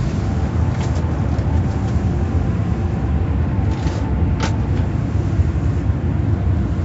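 Steady low rumble of a vehicle, with a brief sharp click about four and a half seconds in.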